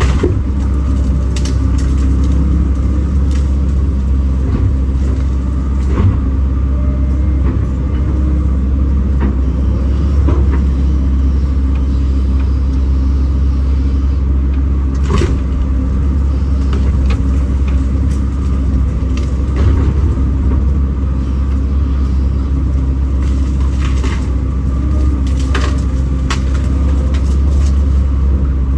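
Kobelco SK210 excavator's diesel engine running steadily under working load, with a deep hum. Several brief sharp knocks and cracks break through it.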